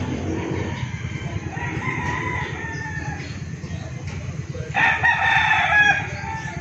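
A bird calls once, loudly, for about a second about five seconds in, after fainter pitched calls earlier, over a steady low rumble.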